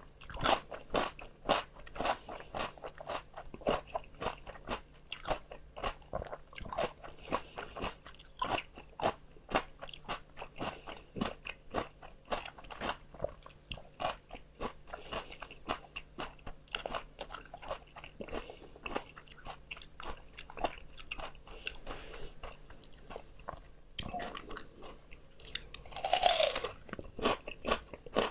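A person biting and chewing crunchy raw vegetables: a steady run of sharp crunches without pause. About two seconds before the end comes one louder, longer burst of noise with a brief falling tone.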